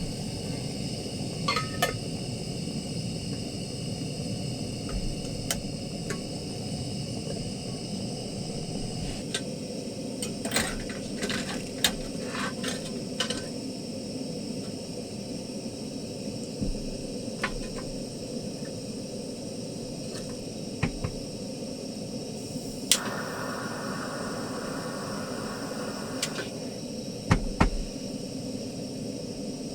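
Light clinks and taps of cookware and utensils, a cluster of them about ten to thirteen seconds in and a few more near the end, over a steady hiss.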